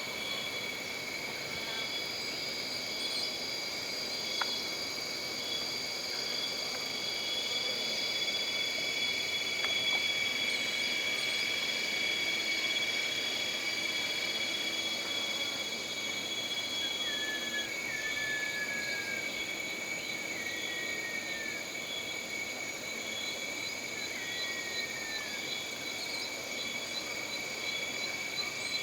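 Jungle ambience of insects: several steady high-pitched drones, one of them pulsing rapidly. From about halfway through, a short falling whistled call repeats every two seconds or so.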